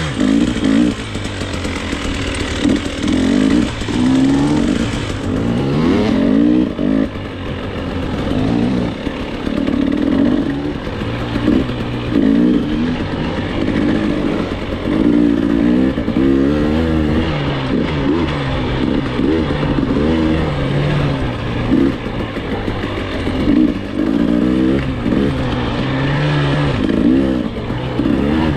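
Dirt bike engine being ridden hard, its revs rising and falling over and over every second or two as the throttle is worked and gears change.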